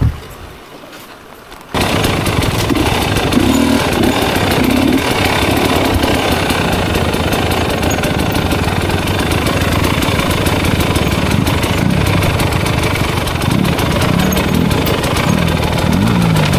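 Enduro dirt bike being bump-started in gear: a thud as the clutch is let out, then the engine catches less than two seconds in and keeps running, its revs rising and falling near the end.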